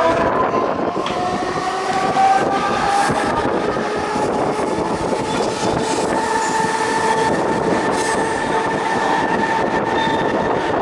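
Mumbai suburban electric local train running, with steady rail and wheel noise and a whine that rises in pitch over the first few seconds, then holds steady.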